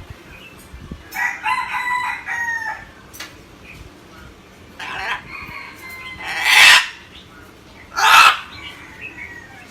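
Pet parrot calling: a drawn-out, crowing-like pitched call about a second in that falls at its end, then three loud, harsh screeches.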